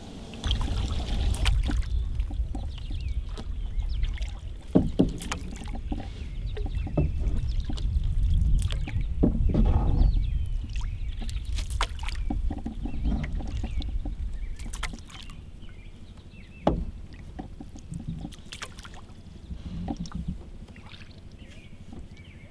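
A canoe being paddled: paddle strokes in the water and scattered sharp knocks, over a low rumble that drops away about two-thirds of the way through.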